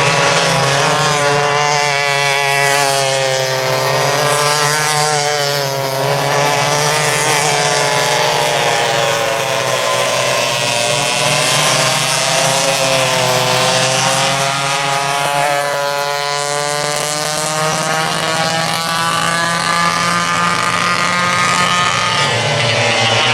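Several vintage rear-engine racing go-karts running on track, their engines' pitch rising and falling as they accelerate down the straights and ease off into the corners, several engines overlapping.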